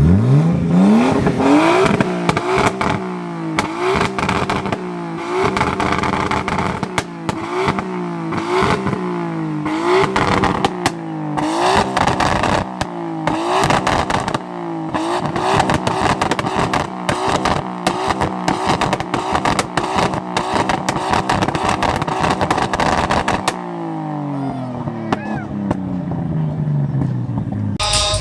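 A car engine revving hard: it climbs in the first couple of seconds, then is held high with quick repeated rises and falls in pitch and many sharp crackles, and winds down over the last few seconds.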